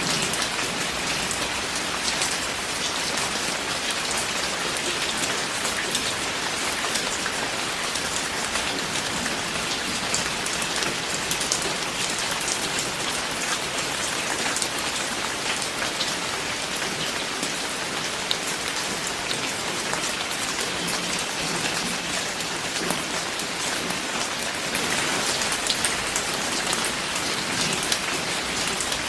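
Steady heavy rain falling and pattering on a surface, an even hiss with many small drop hits.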